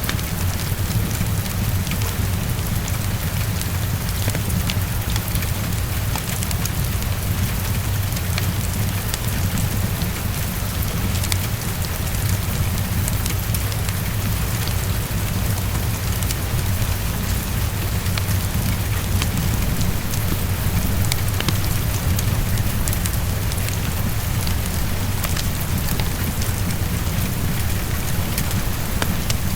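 Heavy rain falling steadily and tapping on a window pane, with many small scattered ticks of drops and a steady low rumble underneath.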